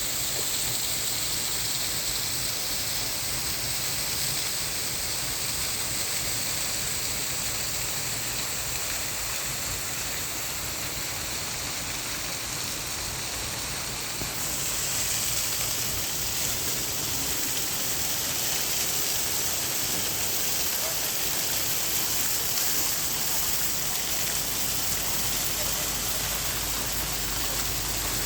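Water of a small waterfall falling and splashing in a steady, even rush, the hiss turning a little brighter about halfway through.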